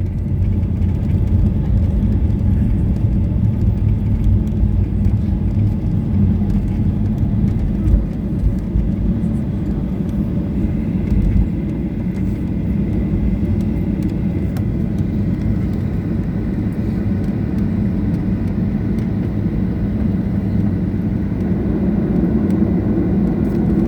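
Cabin noise of a Boeing 737-800 on the ground after landing: a steady low rumble from its CFM56 engines and the aircraft rolling, with a brief thump about eight seconds in.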